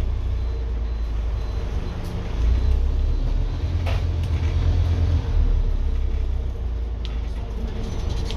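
Scania N230UD double-decker bus's 9-litre five-cylinder diesel engine running under load, a low drone that pulls harder from about two and a half seconds in and eases off after about five seconds. A single sharp click about four seconds in.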